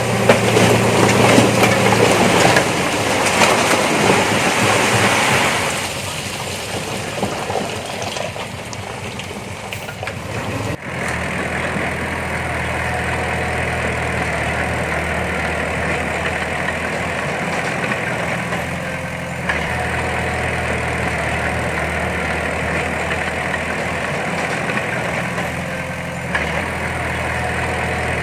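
Heavy diesel earthmoving machinery working, with engine noise and clatter loudest for the first few seconds. After an abrupt change about eleven seconds in, a diesel engine runs steadily.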